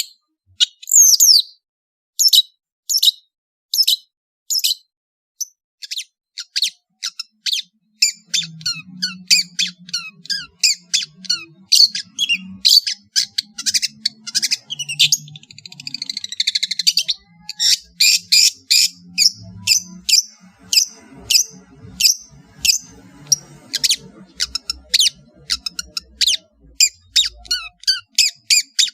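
Long-tailed shrike (cendet) singing: a long run of sharp, high, downward-slurred notes, spaced out at first and then coming quickly, with a scratchy chattering stretch about halfway through.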